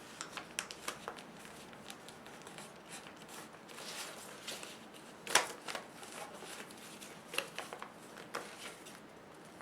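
Sheet of paper being folded and creased by hand: scattered crisp crackles and rustles, the loudest about five seconds in.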